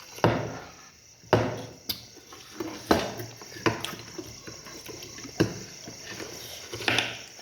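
Eating a bowl of chicken thukpa, a noodle soup: about seven irregular knocks of a spoon or utensil against the bowl, with liquid sounds of the soup between them.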